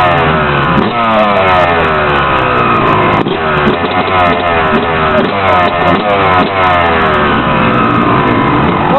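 Motorcycle engine, just started, revved over and over, its pitch falling back after each blip of the throttle.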